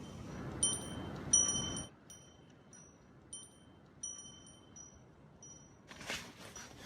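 Wind chime ringing with light, high, clear strikes at irregular intervals, over a rushing noise that stops abruptly about two seconds in.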